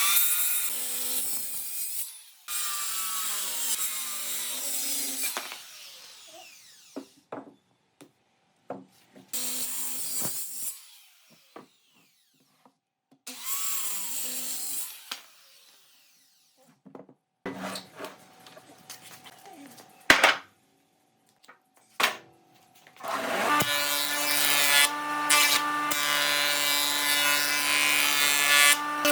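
A power tool working wood in several short bursts, with clicks and knocks between. Near the end a machine starts and runs steadily.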